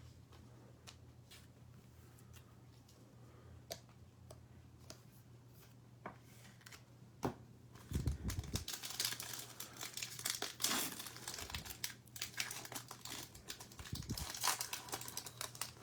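Trading card pack being opened: a few light clicks of cards being handled, then from about 8 seconds in, the plastic wrapper crinkling and tearing.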